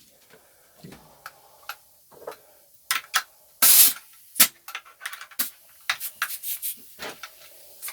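Handling noises: scattered clicks and short rubbing and scraping sounds, with one louder rasping burst about four seconds in.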